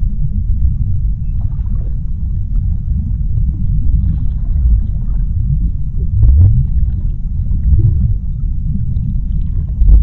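Underwater ocean ambience: a deep, steady rumble with faint scattered crackles and clicks above it.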